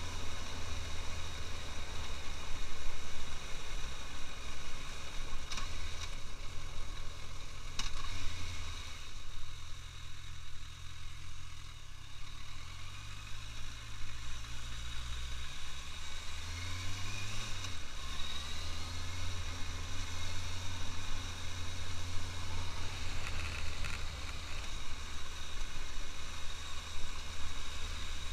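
Suzuki GSX650F's inline-four engine running at low town speed, easing off towards idle partway through and then picking up revs again with a rising pitch.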